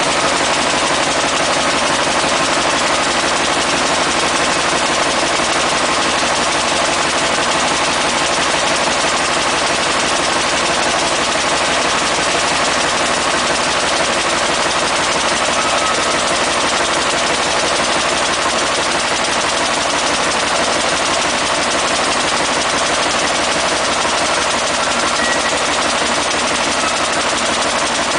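Mitsubishi Fuso 8M21 V8 diesel engine running at a steady speed on a test bench.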